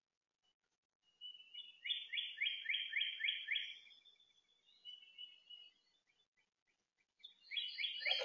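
A songbird singing: a phrase of about seven quick downslurred whistles, then softer trilling notes, and the whistled phrase starting again near the end.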